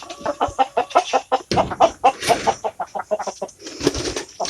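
Chickens clucking, a quick run of short repeated clucks.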